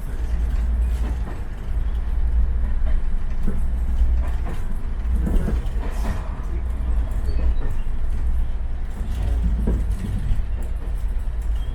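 Steady low rumble inside a diesel-hauled heritage passenger train carriage, with a few faint knocks and rattles.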